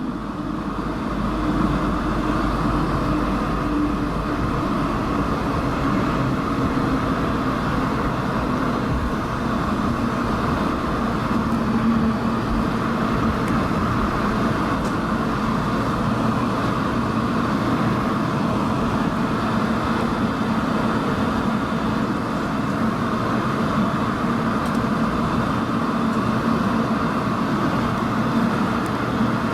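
Steady jet-engine and airflow noise heard inside the cabin of an Airbus A220-300, with a faint steady hum running under it.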